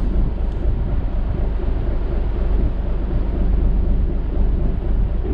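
Small ferry boat's engine running steadily, with wind rumbling on the microphone.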